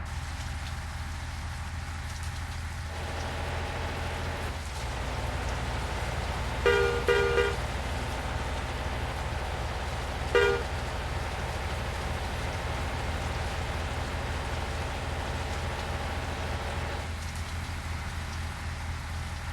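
Truck engine running steadily with a low pulsing drone. A vehicle horn toots twice in quick succession about seven seconds in, and once more a few seconds later.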